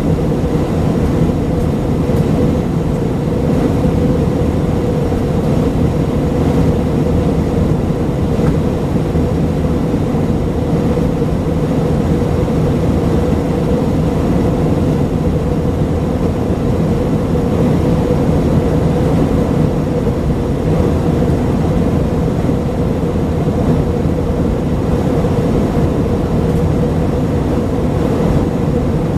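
Steady engine drone and airflow noise inside the cabin of an Airbus A319-132 with IAE V2500 engines, heard from a window seat behind the wing: a constant low hum with a steady mid-pitched tone, unchanging in level.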